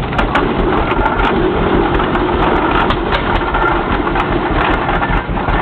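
Frick Eclipse steam traction engine running steadily, a continuous mechanical sound with scattered sharp clicks.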